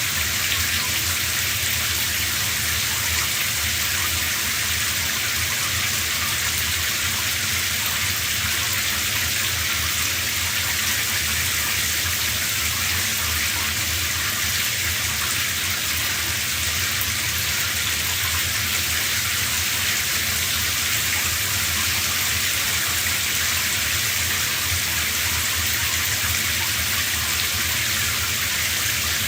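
Shower running: a steady spray of water hissing down, with no change in its flow.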